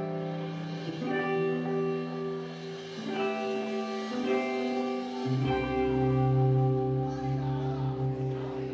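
Post-rock band playing live: sustained, ringing guitar chords that change every couple of seconds, with a deep bass note coming in about halfway through.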